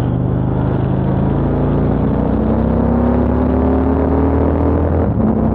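Motorcycle engine pulling under steady acceleration, its pitch rising slowly, then dropping about five seconds in as it shifts up a gear.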